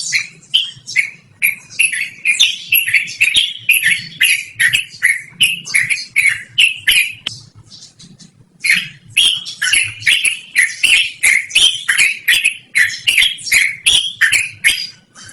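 Yellow-vented bulbul (trucukan) singing a long, continuous string of quick short notes, about three or four a second, with a brief break near the middle before it carries on.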